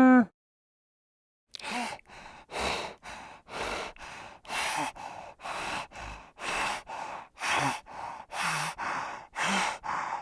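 An animal breathing hard and fast, in short noisy breaths about two a second after a brief pause. Right at the start, the tail end of a pitched animal call.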